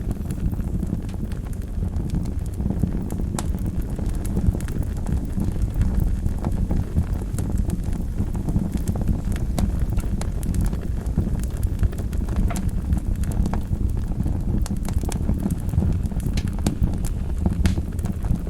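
Wood fire burning in a fireplace: a steady low rumble of flames with frequent irregular crackles and pops of burning logs.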